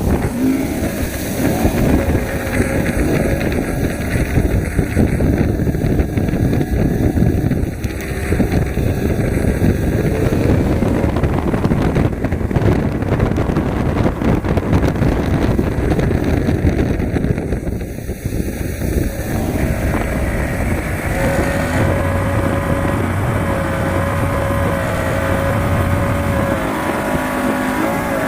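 Power boat's engine running under way, with dense rushing noise. From about 21 seconds in, the engine settles at a steady pitch.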